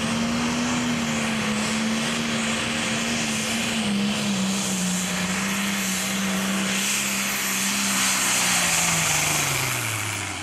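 Single-turbocharged diesel engine of a John Deere Pro Stock pulling tractor running flat out under the load of the sled. Its pitch holds, then sags through the pull and falls away steeply near the end: engine RPM coming down as the sled bogs the tractor down.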